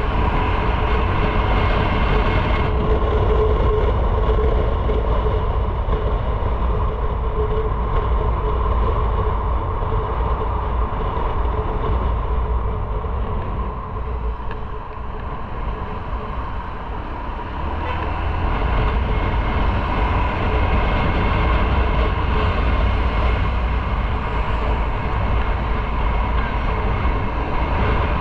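Motorcycle running at road speed, its engine drone mixed with wind rush on the microphone. The sound drops for a few seconds about halfway through, then builds back up.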